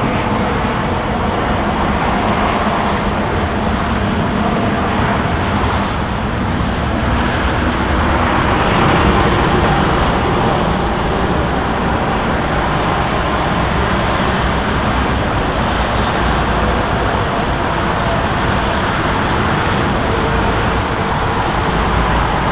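Airbus A350-900's Rolls-Royce Trent XWB jet engines, a loud steady roar that swells slightly about nine seconds in.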